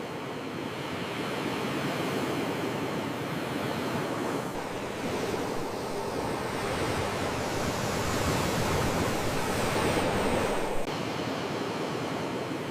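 Sea waves washing ashore: a steady rushing surf that swells to its loudest about ten seconds in, then drops back suddenly.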